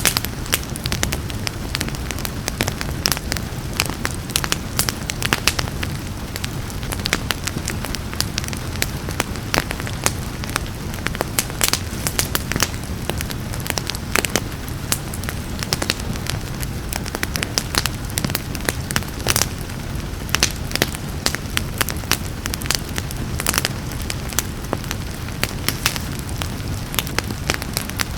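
Wood fire crackling and popping with many sharp snaps, over a steady low rumble of flames and a soft hiss of rain.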